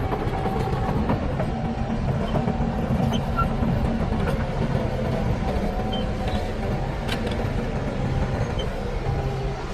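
Diesel engine of heavy earthmoving equipment running steadily, with a few faint clicks.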